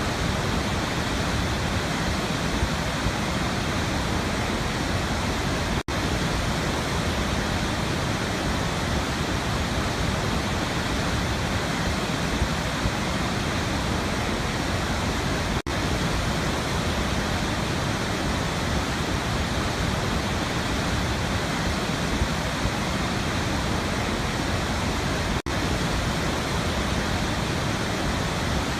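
Waterfall rushing in a steady, unbroken roar of falling water, cut by a momentary dropout about every ten seconds.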